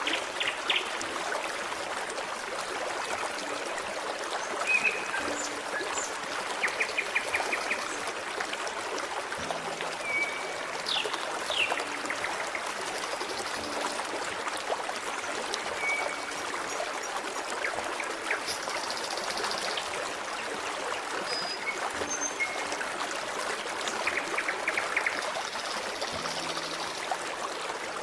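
Forest stream flowing steadily, with short bird chirps and quick trills scattered over it every few seconds.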